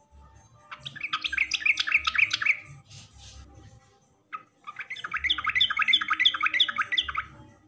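Yellow-vented bulbul singing: two bubbly phrases of quick repeated notes, about five a second, with a short pause between them.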